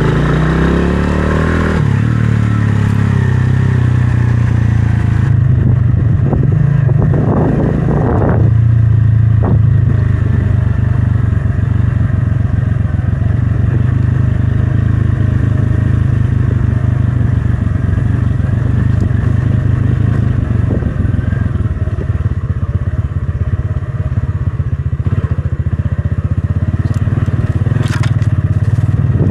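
Motorcycle engine running under way, rising in pitch over the first couple of seconds and then holding a steady drone, with a few clattering knocks around the seventh to ninth seconds.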